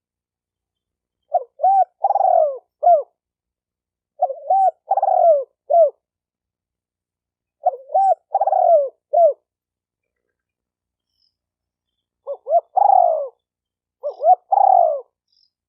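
Spotted dove cooing: five phrases, each of three or four short coos that fall in pitch, with a longer pause in the middle.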